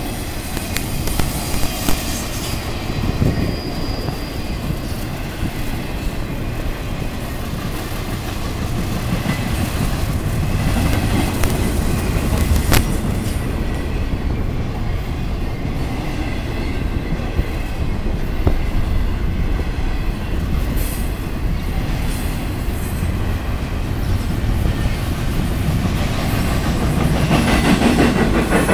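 Freight train cars rolling past at speed: a steady low rumble of steel wheels on rail with a clickety-clack of wheels over rail joints and an occasional faint wheel squeal.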